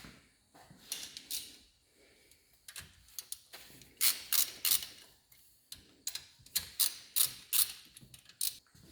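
Hand tools and engine parts clicking and clattering in irregular bursts while a cylinder head is being unbolted, with sharp clicks clustered about four seconds in and a string of them over the last three seconds.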